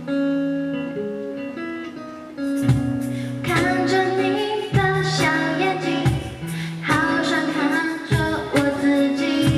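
Live acoustic guitar music: a few sustained picked notes, then, from about two and a half seconds in, fuller strummed chords with sharp accents.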